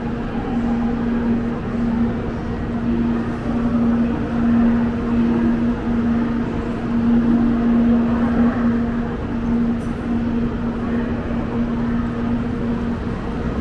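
Tokaido Shinkansen train running: steady rolling noise with a constant hum.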